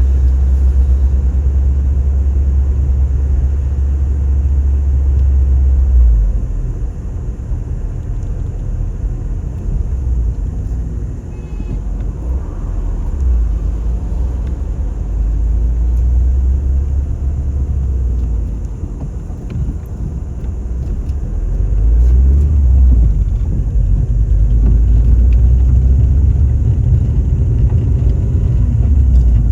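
A car driving, with a continuous low rumble from the road and engine. The deep rumble eases about six seconds in and builds again a little after twenty seconds.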